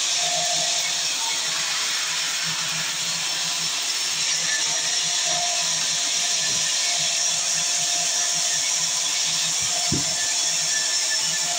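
Sawmill saw running steadily: a loud, even hiss over a faint low hum.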